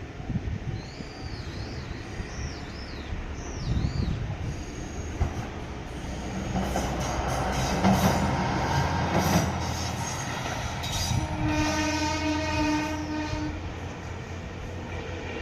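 A Shimabara Railway diesel railcar runs past, its noise swelling to a peak about halfway through with the wheels clacking over rail joints. Then the train's horn sounds one steady note for about two and a half seconds. A bird chirps a few times near the start.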